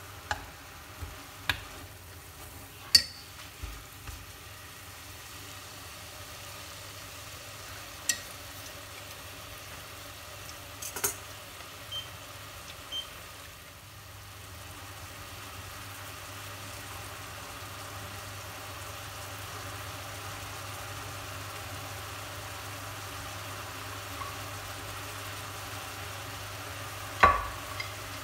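Sweet potato greens and garlic sizzling steadily in a stainless steel pot, a little louder in the second half. Chopsticks click against the pot a few times during stirring in the first seconds, with scattered knocks later and a louder one near the end.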